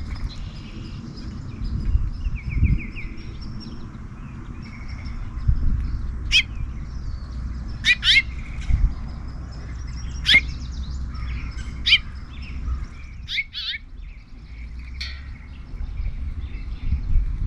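Several songbirds calling and chirping, with a quick trill about two and a half seconds in and sharp loud chip notes scattered through, over a low rumble.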